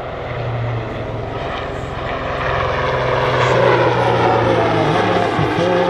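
Swiss Air Force Super Puma twin-turbine helicopter flying a display, its rotor and turbine sound steady and growing louder as it comes closer.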